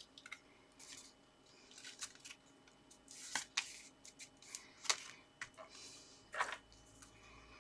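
Sheets of card and paper being handled on a work surface: intermittent soft rustling with a few sharp taps and clicks.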